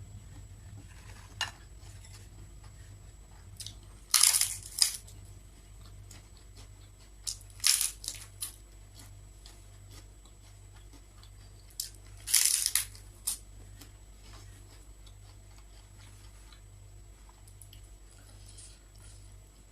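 Eating at a meal: short clusters of sharp clinks and crunches, four times, between quieter stretches.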